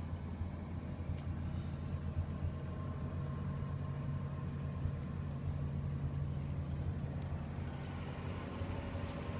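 Heavy diesel truck engine idling steadily, an even low hum.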